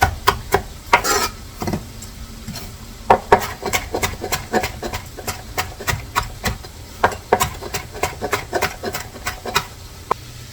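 Kitchen utensil work: irregular sharp clicks and knocks, several a second, over a faint steady hum from the stove.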